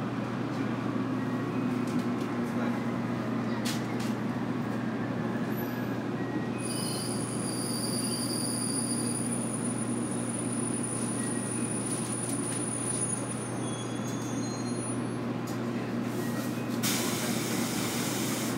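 Inside an 811 series electric train car running into a station: a steady running rumble and hum, with a thin high wheel squeal from about seven to thirteen seconds in, then a burst of hissing air near the end.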